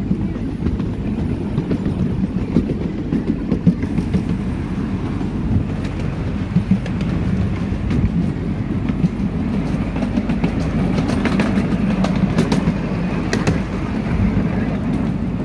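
A small park train running along its track, heard from aboard as a steady low rumble and rattle. Short wheel clicks come through now and then, more of them toward the end.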